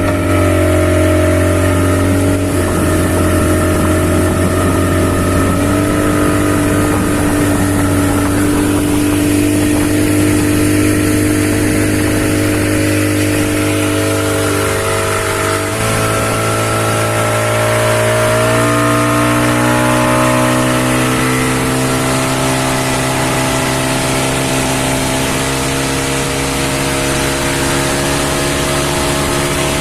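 A speedboat's 40 hp engine running steadily under way, its pitch shifting a little about six seconds in and again about halfway through.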